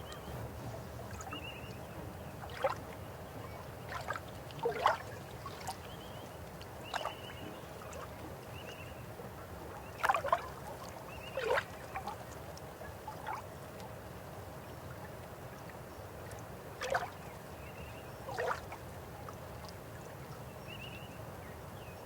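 River water running: a steady low rush with irregular gurgles and splashes, about nine louder ones spread through, and a few faint high chirps.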